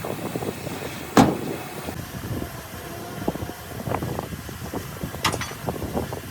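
Heavy earthmoving machinery working with a low rumble and scattered rattling, a sharp clank about a second in and another near the end.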